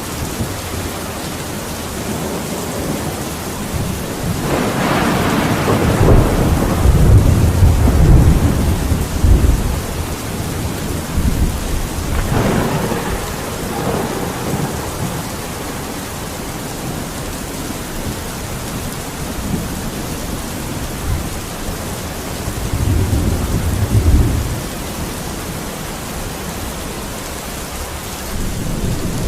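Steady rain falling, with rolls of distant thunder: a long low rumble swelling about four seconds in and fading by ten seconds, a shorter one a little later, and another roll a little past the twenty-second mark.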